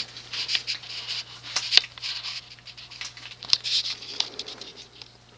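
Hunter Original ceiling fan's cast-iron oil-bath motor running on low speed with a steady low buzz, a residual buzz that its isolation ring is not fully damping. Irregular rustling and a few sharp clicks over it, dying away near the end.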